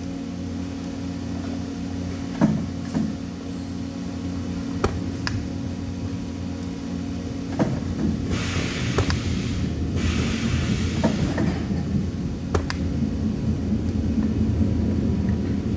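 Metalworking shop sound: a steady machine hum, with a few sharp metal knocks and clinks, and two hissing bursts of about a second each near the middle.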